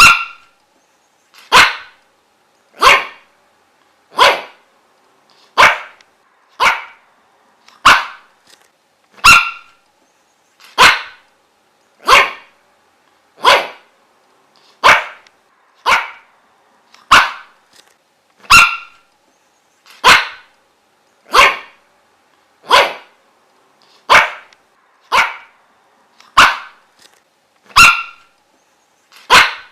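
A dog barking: single sharp barks repeating at an even pace, about one every second and a half.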